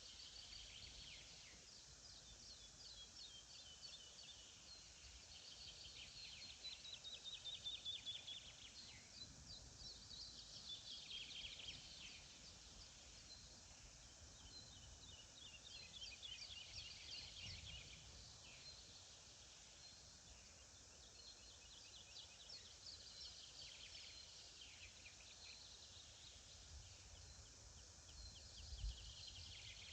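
Faint songbirds singing, short phrases of rapid repeated notes coming every few seconds, over a steady low hiss of outdoor ambience.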